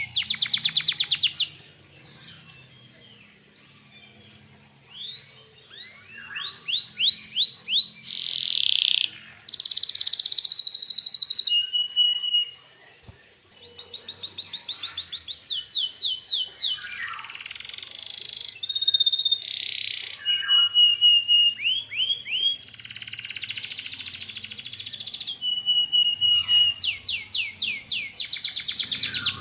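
Male canary singing in phrases of fast repeated notes, trills and rolls, each phrase a run of evenly spaced notes at a steady or sliding pitch. The song is quieter from about two to six seconds in.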